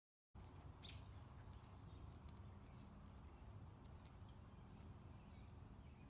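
Faint outdoor ambience: a steady low background rumble with a few short, faint bird chirps, the clearest about a second in. It begins after a fraction of a second of dead silence.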